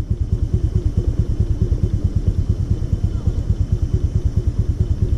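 Small scooter engine running steadily under way, with an even, fast pulsing exhaust note.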